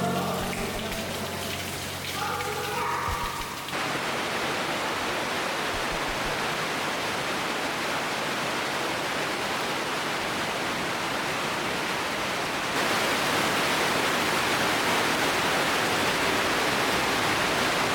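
Steady rush of running water inside a limestone cave, starting a few seconds in and getting a little louder about two-thirds of the way through. It is preceded by a brief stretch of faint voices or music.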